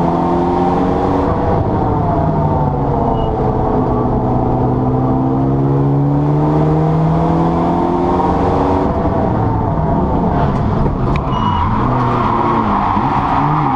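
Mitsubishi Lancer Evo VI Tommi Mäkinen Edition race car's engine running hard, its pitch holding and drifting slowly for several seconds, then changing and breaking up about nine seconds in. A noisy hiss builds toward the end.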